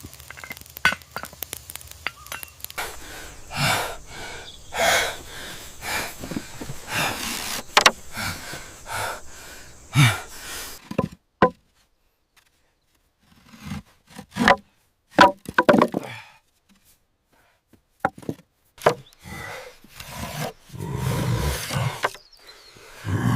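Irregular knocks and chops on wood, as in building work, with a few brief silent pauses.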